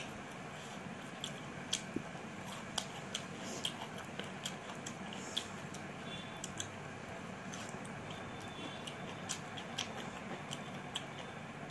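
Close-up eating sounds of someone eating rice and mutton by hand: chewing with irregular sharp wet mouth clicks and smacks, a few a second, over a steady background hiss.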